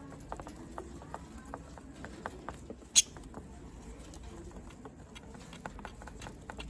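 Pet budgerigars chattering softly: a string of short clicks and small chirps, with one sharp, high chirp about three seconds in that is the loudest sound.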